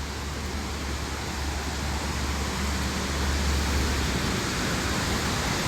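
Steady rushing of a flood-swollen creek and waterfall, with a deep low rumble underneath, growing slightly louder.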